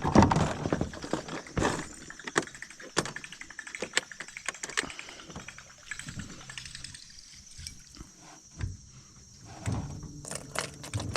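Irregular sharp clicks and knocks, with a louder burst of noise at the very start, over a steady high insect chirring.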